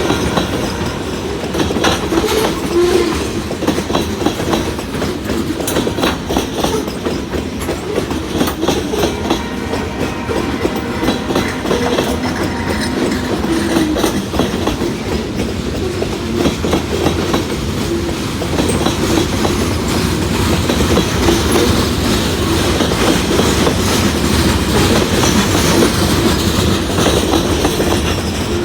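Loaded freight cars of a CSX train rolling past, their wheels clicking steadily over rail joints.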